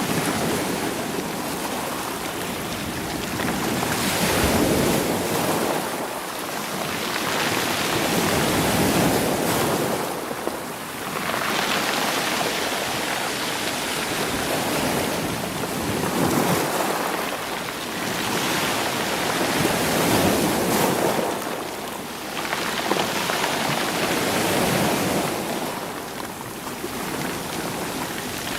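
Sea waves washing in over a stony shore, rolling the stones, surging and drawing back about every four seconds in a steady rhythm.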